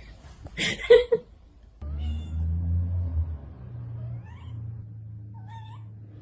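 A pet's cries: a loud short cry about a second in, then two short rising cries near the end, over a low rumble.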